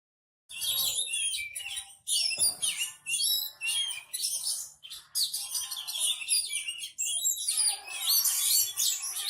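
Oriental magpie-robin (kacer) singing a fast, varied song of chirps and trills in a run of phrases with brief pauses, delivering its learned fill-in phrases copied from other birds. The song starts about half a second in.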